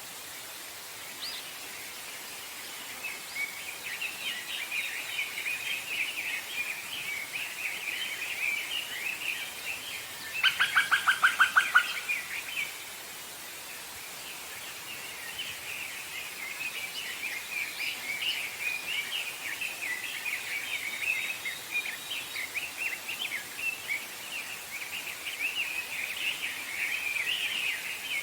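Wild songbirds singing, a long run of fast, high twittering phrases over a steady hiss of background. About ten seconds in, a louder, lower series of about ten quick repeated notes cuts in for nearly two seconds.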